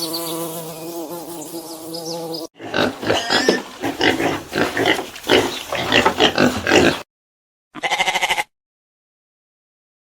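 Animal calls, one after another: a sustained pitched call, then several seconds of rapid, noisy grunt- and squeal-like calls, then an abrupt stop and a short buzzy, pulsing call near the end.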